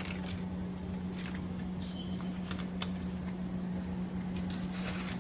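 Light handling sounds, soft rustles and small clicks, over a steady low hum.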